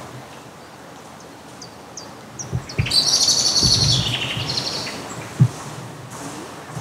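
A songbird singing: a few short high chirps, then a rapid trilling phrase about three seconds in that lasts a second and a half and drops in pitch at its end. A few dull low thumps, the sharpest near the end.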